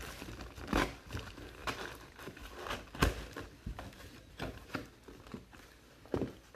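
Trading cards and packs being handled, with irregular light clicks and taps, a few sharper ones about a second in, three seconds in and near the end.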